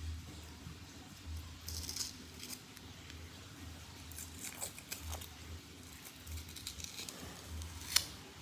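Small handling sounds of an unboxing: faint rustling and scattered light clicks, with one sharp click near the end.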